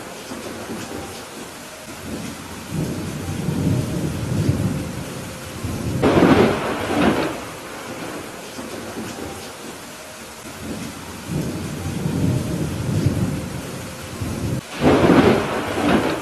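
Steady heavy rain with thunder: low rolling rumbles, and two louder claps, about six seconds in and near the end.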